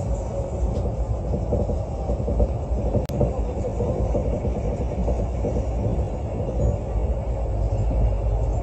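Mugunghwa-ho passenger train running at speed, heard from inside the carriage: a steady rumble of wheels on rails. A single sharp click comes about three seconds in.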